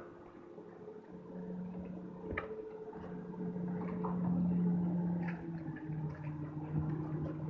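A steady machine hum that swells about a second in and is loudest near the middle, with a couple of faint clicks.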